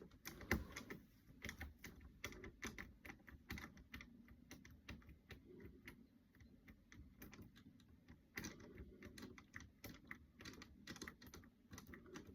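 Faint, irregular clicking and tapping, several clicks a second, with short pauses, over a low background hum.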